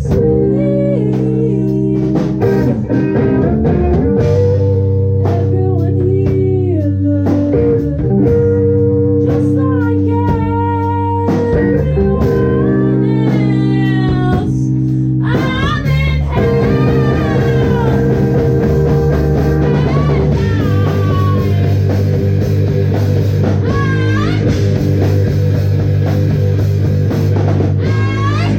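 A rock band playing live: electric guitar and bass holding loud sustained chords, with a drum kit keeping time.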